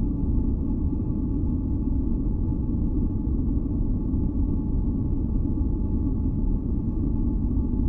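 Steady, deep rumbling noise, weighted to the low end rather than hissy, with faint held tones above it. It is an unbroken ambient noise bed for sleep and masking, and it does not change.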